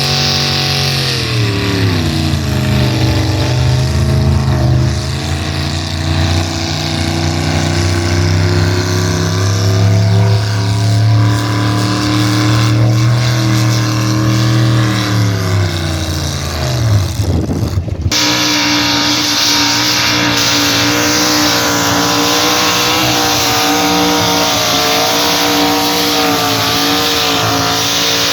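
Pulling truck or tractor engine running hard, its pitch dipping early, then holding and slowly climbing before winding down about sixteen seconds in. After an abrupt cut at about eighteen seconds, another engine runs steadily.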